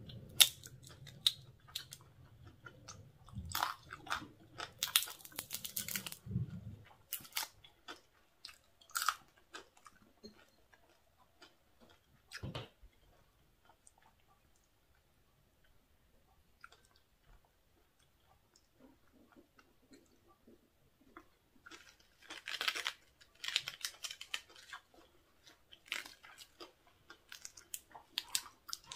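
Close-up crunchy chewing and biting of crispy deep-fried squid, in two spells: one in the first few seconds and one near the end, with quieter chewing in between.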